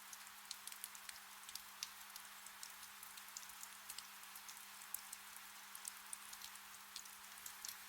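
Gentle steady rain, a soft hiss with scattered individual drops ticking close by, and a faint low steady hum beneath it.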